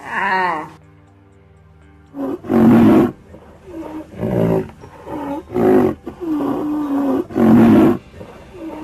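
A large animal's deep, rough roaring grunts in a repeated series, about one a second, after a short higher-pitched call at the start.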